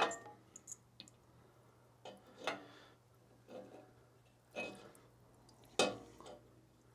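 Fuel dripping from the bottom of a snowblower carburetor into a cup: a handful of separate, irregular drips about a second apart, over a faint steady hum.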